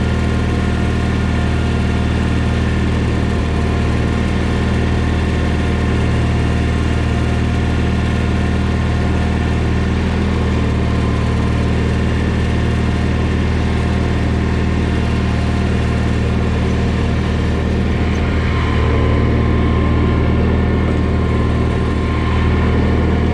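A John Deere 317 garden tractor's engine runs steadily at a constant speed as the tractor is driven. It gets slightly louder about eighteen seconds in.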